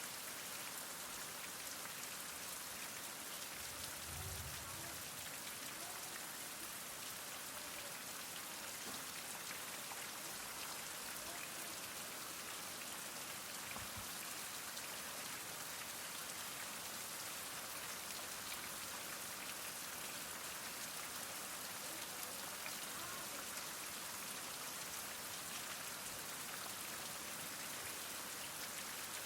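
Heavy rain falling steadily, a dense hiss of drops with fine individual patters. Two faint low thuds, about four seconds in and about fourteen seconds in.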